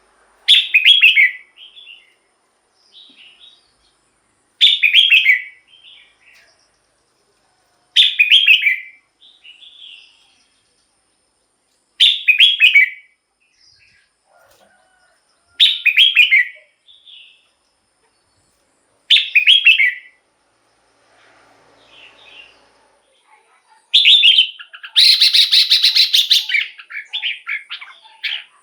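Red-whiskered bulbul singing short, clear phrases about every three to four seconds. Near the end comes a longer, busier burst with a harsher, buzzy middle.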